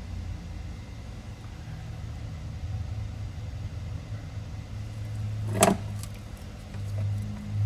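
A steady low hum with one sharp knock about five and a half seconds in.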